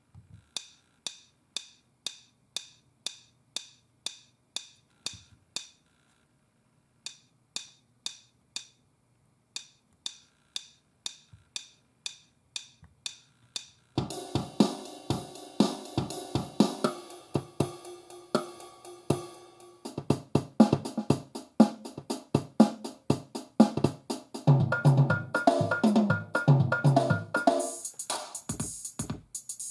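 Built-in drum machine of a NUX Mighty Air amp playing rhythm patterns. A sparse ticking pattern of about two clicks a second with short gaps changes about halfway to a full drum-kit beat, and to a brighter, cymbal-heavy pattern near the end.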